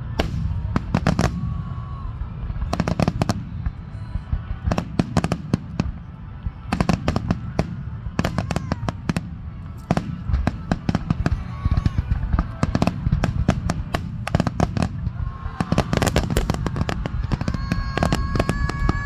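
Fireworks finale: a dense barrage of aerial shell bursts, sharp bangs coming in quick clusters over a steady low rumble.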